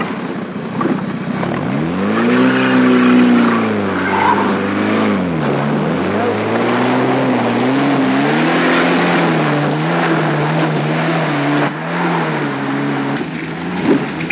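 Trials car's engine revving hard under load as it climbs a steep muddy hill. Its pitch swings up about two seconds in, drops back near five seconds, then rises and falls as the throttle is worked.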